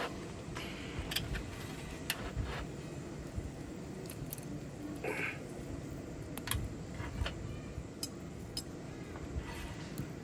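Scattered light metallic clicks and clinks of cooking utensils over a steady low background rumble, with one short rustle-like burst about halfway through.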